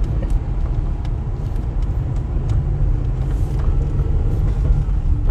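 Car driving at low speed: a steady low rumble of engine and tyres, with a few light scattered clicks.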